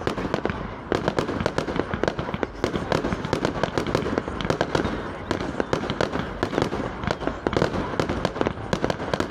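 Fireworks display going off: a dense, continuous rattle of bangs and crackling pops in quick succession.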